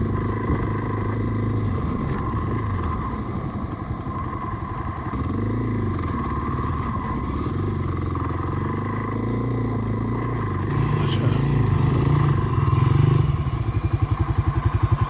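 Dual-sport motorcycle engine running on a dirt trail, its revs rising and falling, then settling into an even, regular beat near the end.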